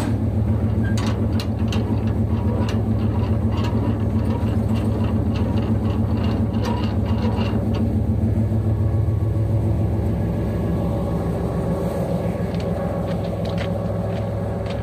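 Diesel locomotive engine running with a steady low drone. A scatter of sharp metallic clicks and ticks comes through the first half, and the drone eases slightly about ten seconds in.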